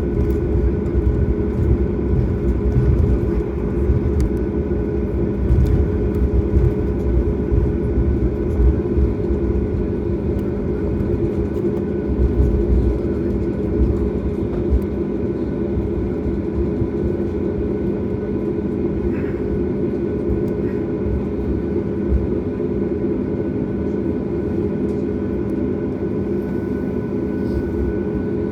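Steady cabin hum inside a Boeing 737 MAX on the ground, its CFM LEAP-1B engines at idle, with several fixed tones over a low rumble. The rumble is uneven for about the first half and then settles.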